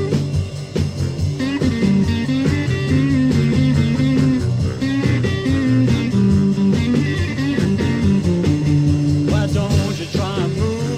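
Blues-rock band playing an instrumental break between verses, guitar lines over a steady beat. Singing comes back in near the end.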